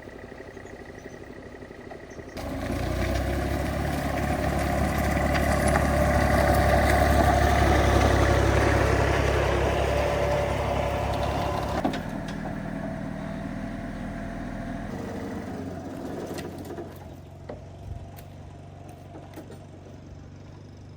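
A vehicle engine running, coming in suddenly a couple of seconds in and swelling louder for several seconds. It drops off sharply about twelve seconds in, runs on more quietly, then fades near the end.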